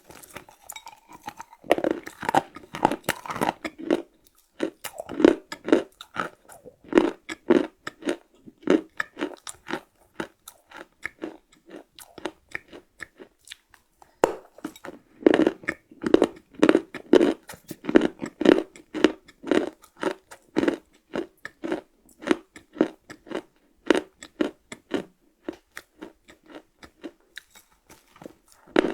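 Close-miked chewing of hard, crunchy chocolate cookies: a steady run of crunching chews, roughly two a second, with a short pause about halfway through before the chewing starts again.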